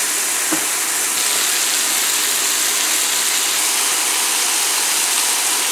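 Bacon-wrapped chicken breasts sizzling steadily in a little oil in a nonstick skillet as the bacon crisps; the sizzle cuts off abruptly near the end.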